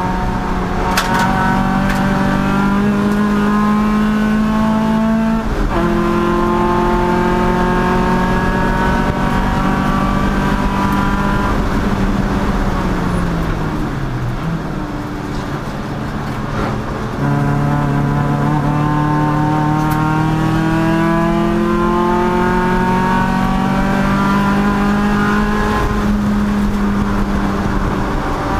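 Race car engine running hard at high revs. An upshift comes about five seconds in and the pitch climbs again. Around twelve seconds the engine lifts off and the revs fall, quieter for a few seconds, then it accelerates hard again near seventeen seconds, the pitch rising through further shifts.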